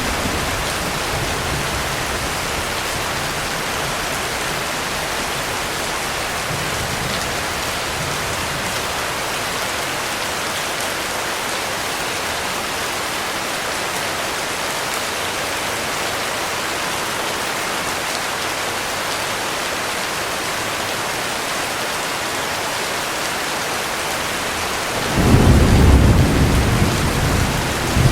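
Heavy rain falling in a steady hiss, with faint low thunder rumbling in the first several seconds. Near the end a loud clap of thunder breaks in and rolls on.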